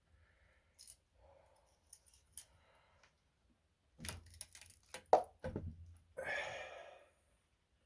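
Metal tool clicks and clinks from a spring compressor being handled: a few light clicks, then a quick run of clicks with one sharp clank about five seconds in, followed by a short hiss.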